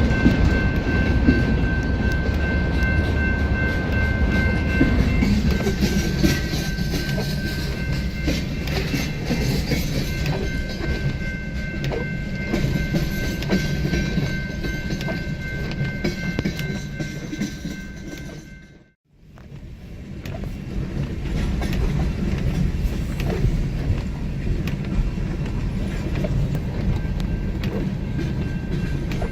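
BNSF freight train rolling past a grade crossing: a steady rumble of cars on the rails with some clickety-clack, and steady high-pitched tones over it, strongest in the first few seconds. The sound fades out and back in about two-thirds of the way through.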